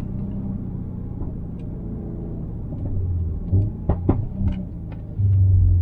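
Subaru WRX STi's turbocharged EJ257 2.5-litre boxer engine with a muffler-deleted exhaust, running at a steady low pitch. A few sharp cracks come about four seconds in, and the engine gets louder from about five seconds in.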